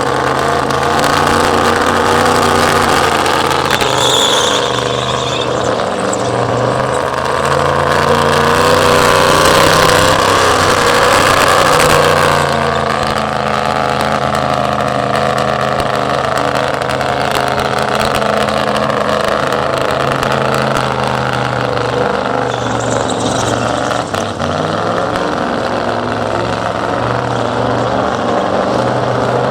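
Burnout car's engine held at high revs while its tyres spin. It eases off about twelve seconds in and keeps running at lower, steadier revs.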